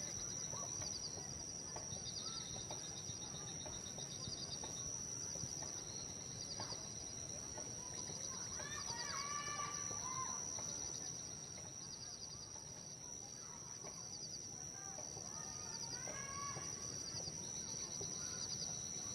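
Birds chirping over a steady high-pitched whine. Short high trills repeat about once a second, with two livelier bursts of calls, about halfway through and again near the end.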